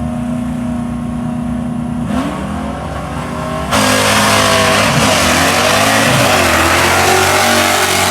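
V8 drag car held at steady revs on the start line, then launching at full throttle about four seconds in and pulling hard down the track, its pitch climbing and dropping through the gear changes.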